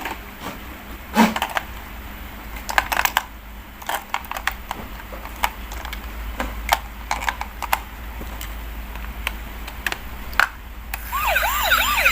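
Scattered plastic clicks and knocks as batteries are fitted into a battery-powered toy police car. About a second before the end the toy's electronic siren switches on with a fast, repeating rise-and-fall wail.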